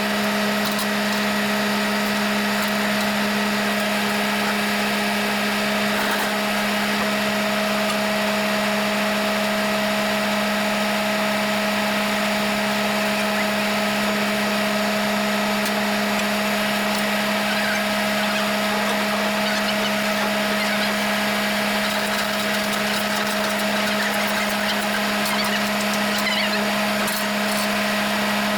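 A motor running steadily at one unchanging pitch: a strong low hum with a higher whine above it.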